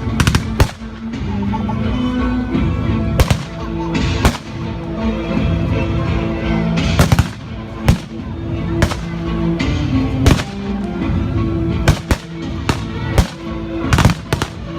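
Blank gunfire in a WWII battle reenactment: sharp single shots at irregular intervals, coming faster in a quick run near the end, over steady background music.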